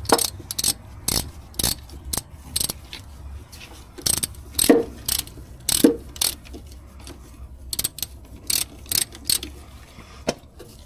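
Ratchet clicking in uneven runs of sharp clicks as hose clamps on a fuel tank vent hose are tightened.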